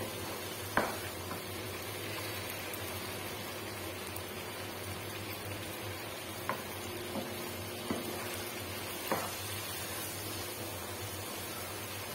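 Chopped vegetables sizzling in a wok as a wooden spatula stirs them, with about five sharp knocks of the spatula against the pan.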